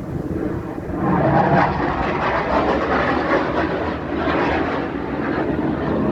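An aircraft's engines flying past at an air show, a loud steady rush of engine noise that swells about a second in and holds.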